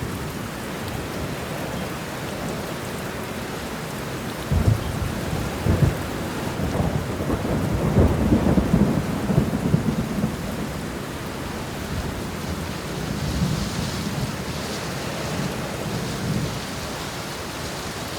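Steady rain with thunder: a couple of sharp cracks about four and a half and six seconds in, then a long rumble loudest from about seven to ten seconds, dying down to a softer rumble under the rain.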